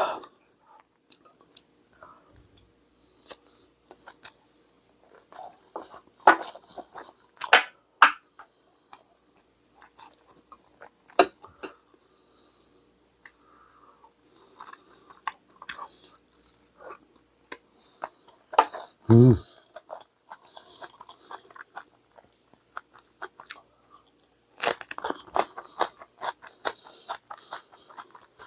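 A person chewing food close to the microphone, with crisp crunching bites into a raw green chili pepper that come thicker near the end. A short low thump stands out about two-thirds of the way through.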